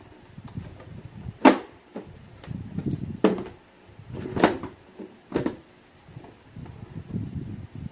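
Handling noises of unpacking: low rustling and shuffling, broken by four sharp knocks or clacks of hard objects being set down or bumped, the loudest about a second and a half in.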